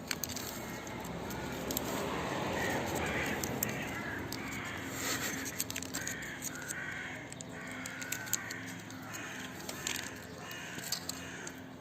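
Crows cawing repeatedly in a string of short, harsh calls, with a few sharp clicks among them.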